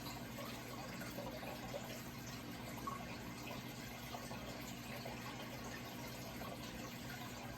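Running water trickling and splashing steadily, with a low steady hum underneath.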